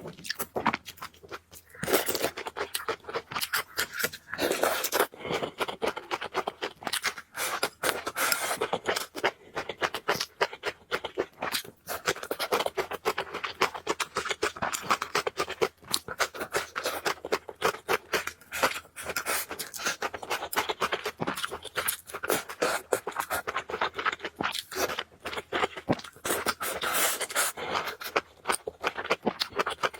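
Close-miked mukbang eating sounds: wet chewing and slurping of noodles, with many quick mouth clicks and smacks.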